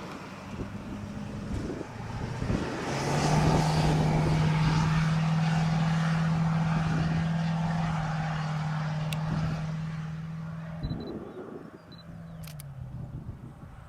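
A motor vehicle passing by: a steady engine and tyre hum swells about three seconds in, holds for several seconds, then fades, with its pitch dropping slightly near the end. Wind on the microphone underneath.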